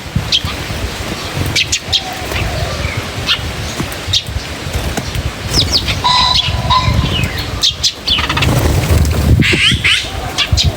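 Birds chirping: many short, high chirps and quick whistled glides come one after another at irregular intervals, over a steady low rumble.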